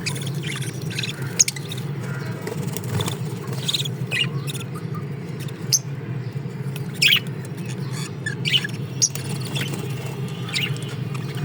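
Small cage birds chirping in short, scattered calls over a steady low hum.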